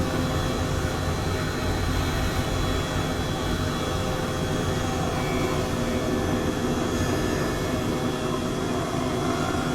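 Helicopter running steadily in flight: a constant, even engine and rotor noise that does not rise or fall.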